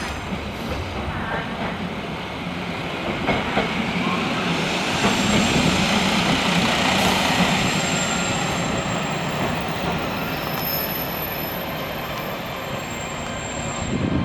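A train running along the station track, its wheels rumbling and squealing thinly. It grows louder to a peak around the middle and then fades somewhat.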